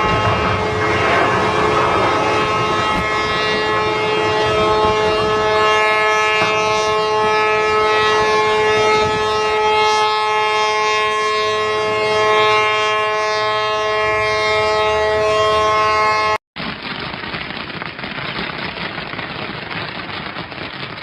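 A loud, steady sound made of several held tones at once, like a siren or horn chord. It cuts off abruptly about 16 seconds in and gives way to an even hiss like heavy rain.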